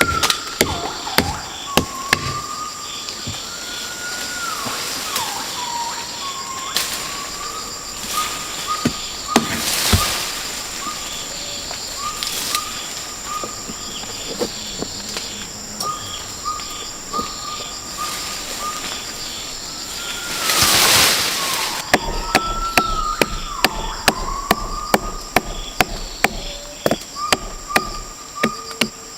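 Rainforest ambience: a steady high insect drone, with a bird repeating whistled notes that rise and fall. Sharp knocks and clicks come throughout, and there are two brief rushing swishes about ten and twenty-one seconds in.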